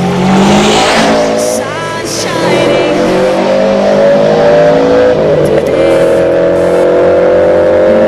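Subaru Impreza Turbo's flat-four engine accelerating hard, its pitch climbing, with a short drop for a gear change about five seconds in before it climbs again.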